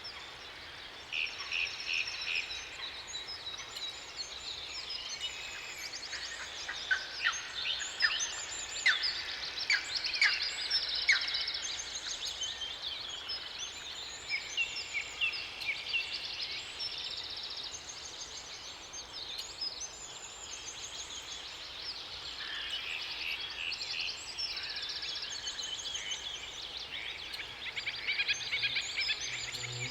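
Several songbirds singing together, with overlapping trills, chirps and quick whistled notes, and a cluster of loud sharp calls about seven to eleven seconds in, over a steady hiss of water.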